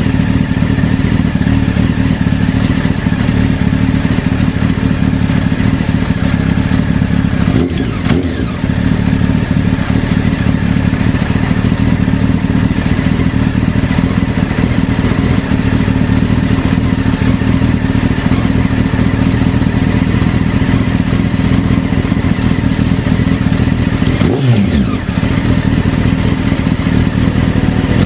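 Honda CBR929RR's inline-four motorcycle engine running loud and steady through a LeoVince SBK oval aftermarket exhaust. Brief dips in the note come about eight seconds in and twice near the end, the later ones with a quick falling pitch.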